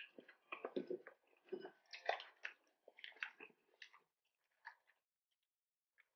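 Close-miked chewing and crunching of batter-fried calamares and shrimp tempura: many short, irregular crackly bites. They thin out after about four seconds.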